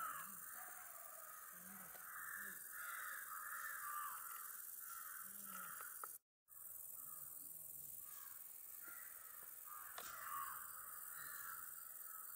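Birds calling over and over, faint, with a steady high hiss underneath; the sound cuts out completely for a moment about six seconds in.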